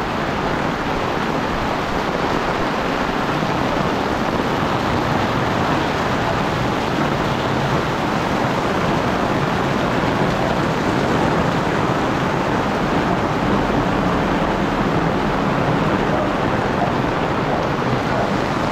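Heavy rain pouring steadily, heard from under an umbrella.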